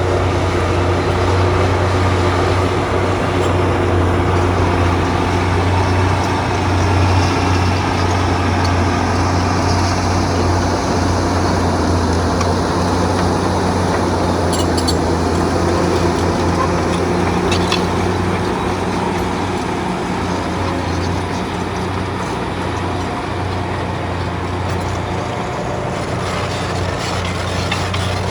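Bulldozer's diesel engine running steadily under work, a continuous low drone, with a few short clicks or clanks about halfway through.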